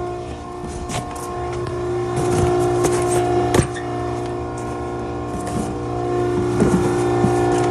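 Maren cardboard baler's hydraulic power unit running with a steady whine and hum, the pitch shifting slightly about a second in and again near the end, with a few sharp clicks and knocks.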